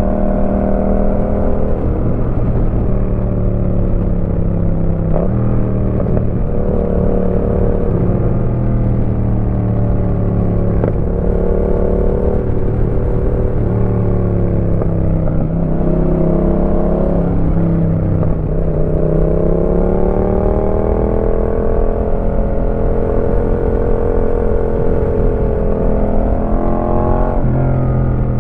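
Yamaha MT-07's 689 cc parallel-twin engine running through a Roadsitalia aftermarket exhaust while riding. Its pitch rises and falls several times, with short breaks where the rider changes gear.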